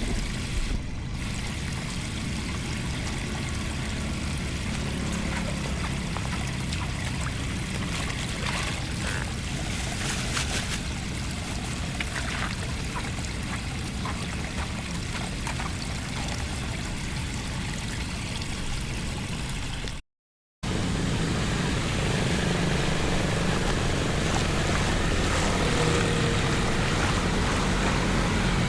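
Floodwater flowing steadily, a constant rushing haze of water noise. About two-thirds of the way through it cuts out for a moment, then comes back a little louder.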